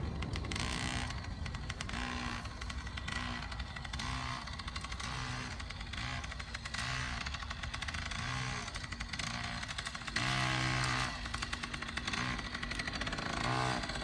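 Small dirt bike engine revving up and down over and over, each rise and fall about a second long, with a louder, longer rev about ten seconds in.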